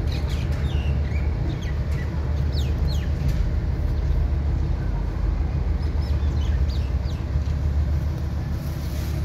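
Short, high chirps from small birds scattered through, over a steady low rumble.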